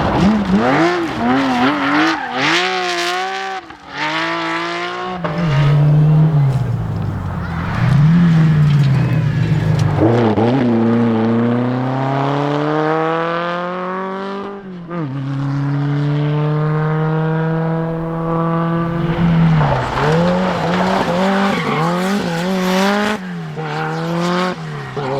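Rally car engine at high revs: the throttle is worked up and down, then the car accelerates hard with a long rising climb in pitch, a sudden drop at a gearchange about fifteen seconds in, and a second climb, before more throttle blips near the end.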